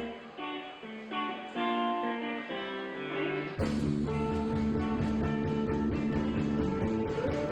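Live rock band. A guitar picks a melodic line on its own for about three and a half seconds, then the full band with bass and drums comes back in at once and keeps playing.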